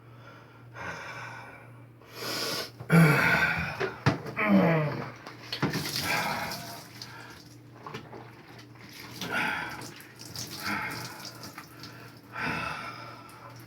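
A man groaning in pain several times while scrubbing an open surgical wound on his leg with soap, with splashes of water in between.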